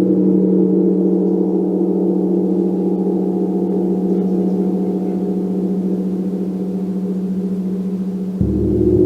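Gong ringing with several overlapping sustained tones, slowly fading, then struck again near the end, bringing a fresh, louder swell of lower tones.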